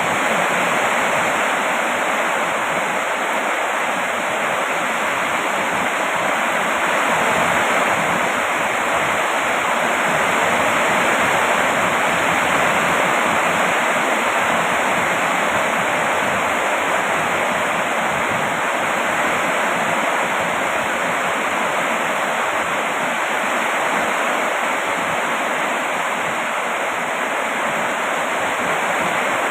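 Steady heavy rain: an even, unbroken hiss of rainfall with no distinct drops, thunder or other sounds standing out.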